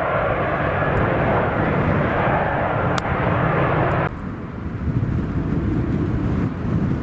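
Airliner engine noise, a steady rushing roar, over heavy wind buffeting the microphone. About four seconds in the engine noise cuts off abruptly, leaving only the low, gusty wind rumble.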